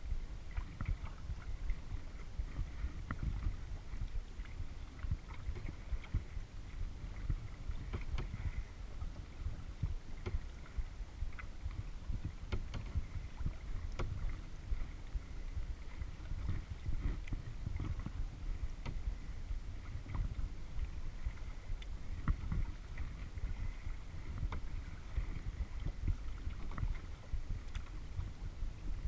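Kayak paddling on a lake: small paddle splashes and water sloshing against the hull, with scattered light ticks, over a steady low rumble.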